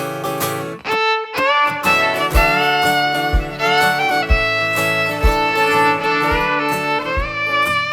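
Instrumental break in a live folk song: a fiddle plays the melody with sliding notes, over a low beat about once a second.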